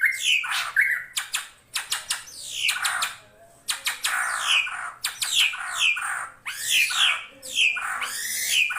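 A drongo calling over and over: harsh, scratchy notes mixed with sharp down-slurred whistles in quick bursts, with a short pause about three seconds in.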